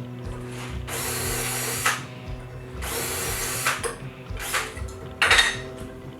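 Power drill running in short bursts: two of about a second each, then two brief ones near the end.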